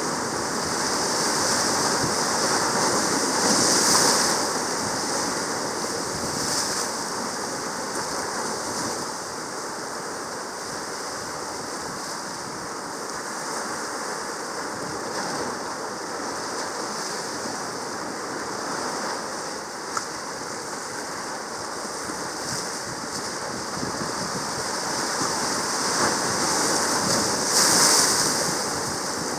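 Sea water rushing and washing in a steady hiss, swelling louder about four seconds in and again near the end.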